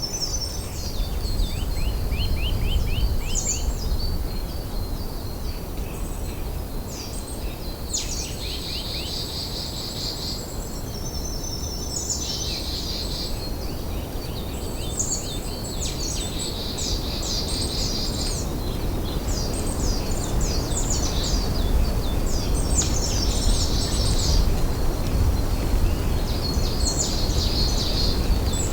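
Wild songbirds singing, quick series of high notes repeated every few seconds, over a steady low rumble that is the loudest part of the sound.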